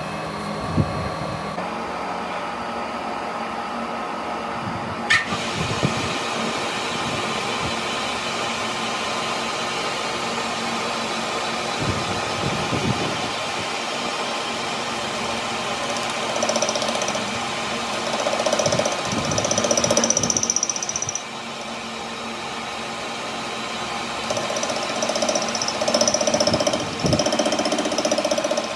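Metalworking machine running steadily, with two sharp metallic clicks early and two louder stretches of machining noise, each carrying a steady tone, in the second half.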